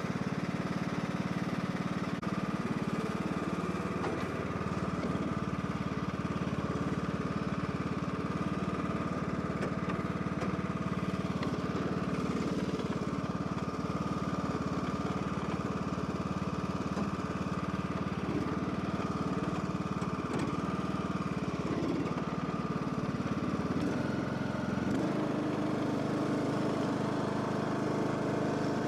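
John Deere LA105 riding mower's engine running steadily after its no-start repair, with the engine note shifting about 25 seconds in.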